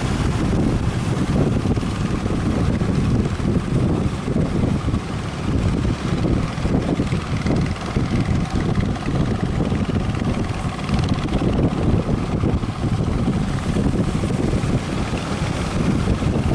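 Fishing boat motors running, mixed with strong gusty wind buffeting the microphone and surf.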